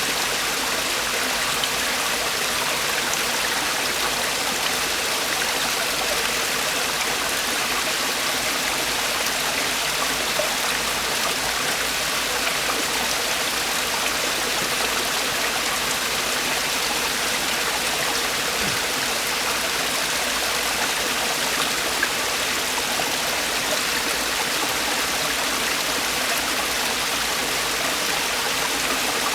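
Mountain stream water falling and rushing over rocks in a steady, unbroken splashing rush.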